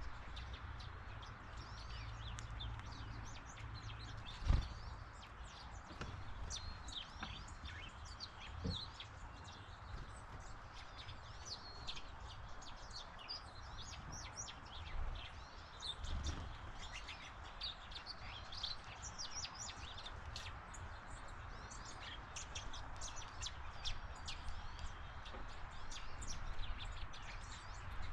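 Backyard birds chirping in many short, high calls throughout, over a steady low rumble, with a sharp thump about four and a half seconds in and a softer one near nine seconds.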